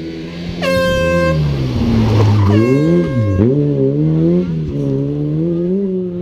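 Rally car engine running hard, its revs rising and falling with a sharp dip about three seconds in, as the car lifts and accelerates. Over it an air horn blows twice, once near the start and once about midway.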